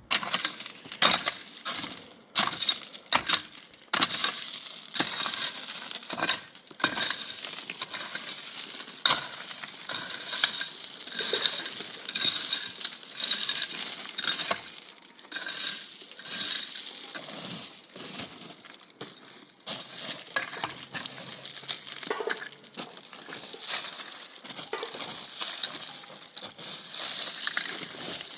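Busy clinking and scraping of hard objects, with many sharp clicks and knocks.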